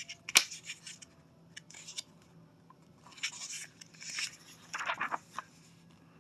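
Paper rustling and scraping as a picture-book page is turned, with a sharp click about half a second in and more bursts of rustling in the later seconds.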